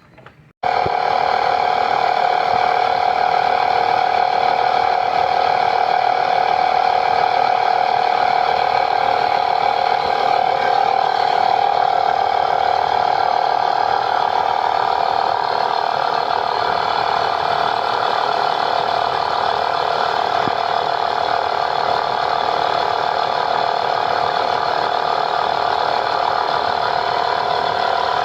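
A motor-driven machine running steadily with a loud mechanical rattling whir. It starts abruptly just under a second in.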